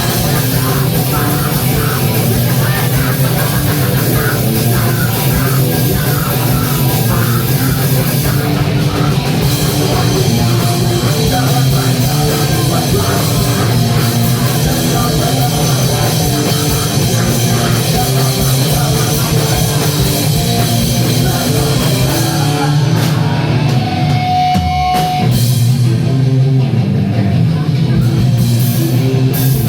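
Live punk/metal band playing loudly, with distorted guitars and a drum kit. A brief held high tone sounds about three-quarters of the way through.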